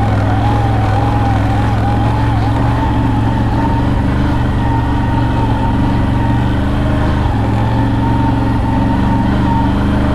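CF Moto CFORCE 1000 Overland ATV's V-twin engine running steadily under way, with a thin whine over it that wavers for the first couple of seconds and then holds steady.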